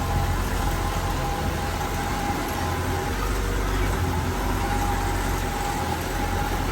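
Diesel engine of heavy earthmoving machinery running steadily, a low, even drone with a thin steady whine above it.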